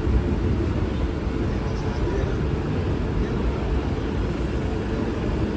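Mumbai suburban electric local train running along the platform, a steady rumble of wheels and running gear heard through an open doorway.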